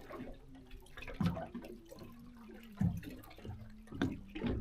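Water dripping and splashing in short bursts, a handful of times about a second apart, over a faint steady hum.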